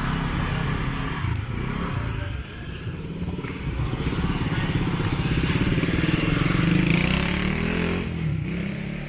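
Motorbike engines running close by; one speeds up with a rising pitch, grows loudest about seven seconds in, then fades as it moves off.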